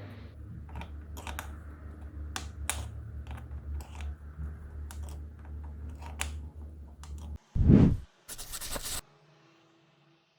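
Irregular small clicks and light scraping from a window handle and its parts being handled and worked on, over a steady low hum. About seven and a half seconds in comes one loud thump, then a short rasping burst, and the sound stops.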